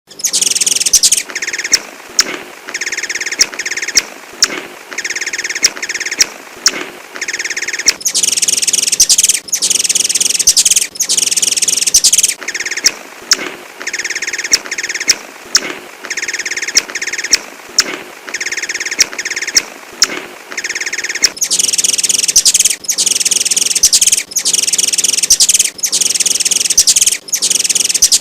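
A sunbird (the small songbird Indonesian bird keepers call 'kolibri') singing: fast, high chirping phrases of a second or two, repeated with short breaks between them, and sharp ticks scattered through the song.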